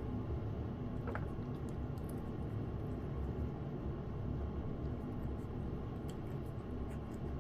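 A lynx point cat eating wet food in gravy: a few faint clicks of chewing and licking over a steady low background hum.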